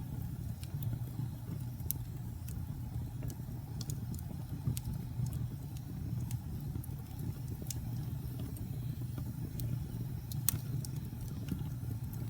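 Wood fire crackling in a fireplace: a steady low rush of burning with sharp, irregular pops and crackles throughout, the loudest pop near the end.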